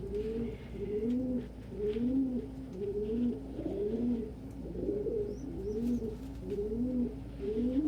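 Pet pigeons cooing continuously: low, rolling coos repeated about twice a second, several birds overlapping.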